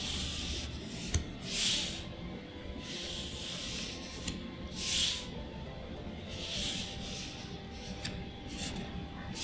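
Trading cards slid one at a time off a stack, a soft papery swish about every second and a half as each card is revealed.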